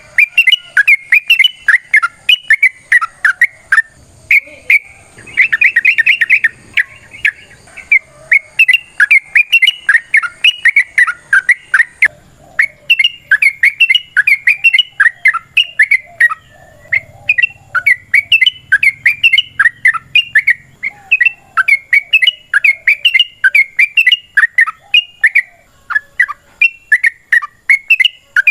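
Yellow-vented bulbul (trucukan) singing a long, rapid run of bubbly chirping notes, with a short break about twelve seconds in.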